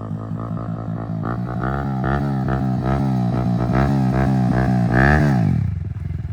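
Yamaha R15M's single-cylinder engine through an aftermarket Akrapovic-copy exhaust, the bike approaching at steady throttle and passing about five seconds in, its pitch dropping and fading as it moves away.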